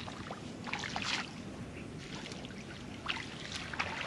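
Water sloshing and trickling around a person wading waist-deep, with small splashes about a second in and again near the end.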